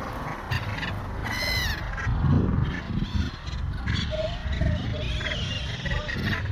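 A gull gives one short, harsh call about a second and a half in. A few softer, short calls follow around the middle, over a steady low rumble.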